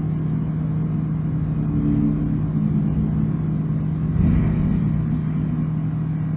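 Steady engine drone: a constant low hum over rumbling noise, slightly louder about four seconds in.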